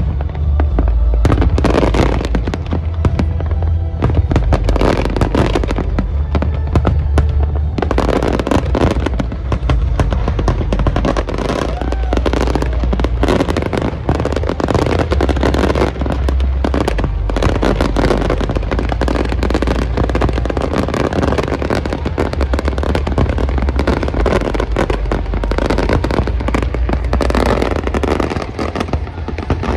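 Dense barrage of aerial firework shells bursting and crackling in rapid succession, with music playing underneath.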